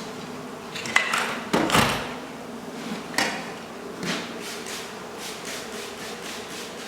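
A few sharp knocks and bangs, the loudest about a second in and around the two-second mark, with smaller ones near three and four seconds, from hands and tools working at a wall.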